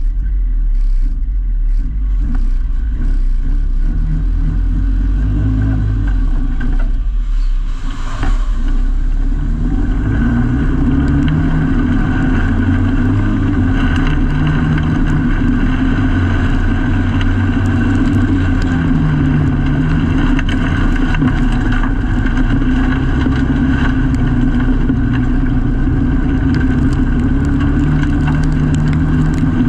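Autograss race car engine heard from inside the cockpit, revving with rising and falling pitch. There is a brief dip and a sharp knock about eight seconds in, after which the engine runs hard at high revs, its pitch still rising and falling.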